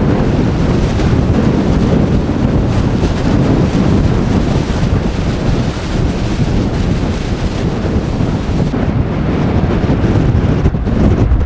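Storm-force blizzard wind blowing hard against the microphone, a steady loud rumble of wind noise that gusts slightly without a break.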